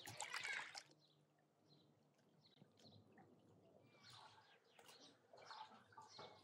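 A short splash of water in the first second, then faint scattered bird chirps.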